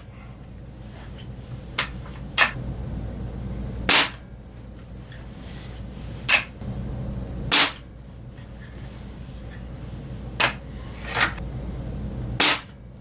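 Ruger Air Hawk .177 break-barrel spring-piston air rifle firing three shots, about 4 seconds in, 7.5 seconds in and near the end. Between the shots come shorter, quieter clicks and snaps.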